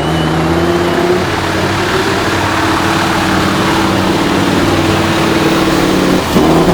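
Heavy off-road trial truck's diesel engine running hard at steady high revs, with a brief break about six seconds in.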